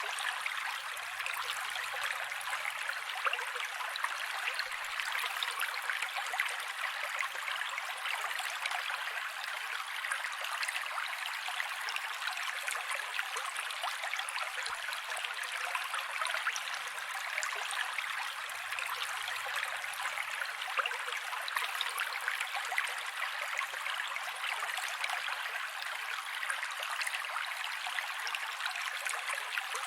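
Mountain creek flowing over rocks: a steady, even rush of water with fine splashing and bubbling, no breaks or changes in level.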